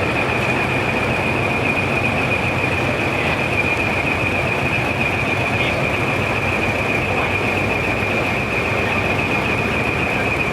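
Steady, unbroken running of truck engines, with a continuous high-pitched tone held over the noise throughout.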